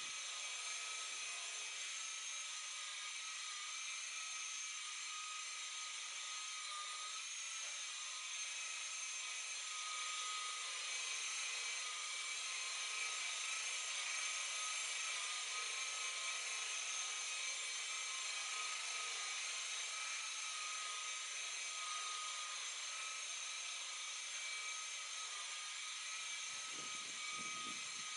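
Electric buffer running steadily at speed with a high-pitched whine, polishing out the oxidised gelcoat of a boat hull; slightly louder in the middle.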